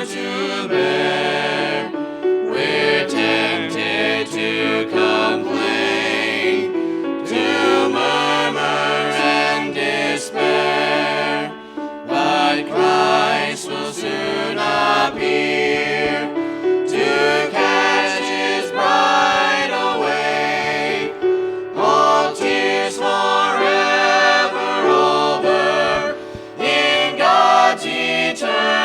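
Group of voices singing a gospel song together in harmony, with vibrato on the held notes.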